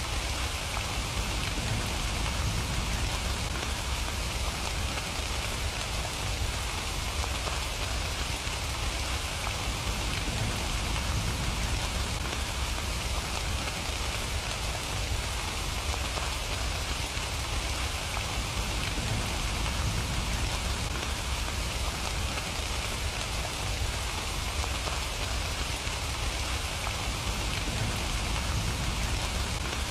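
Steady rain falling, an even hiss of countless drops with no let-up, over a low rumble.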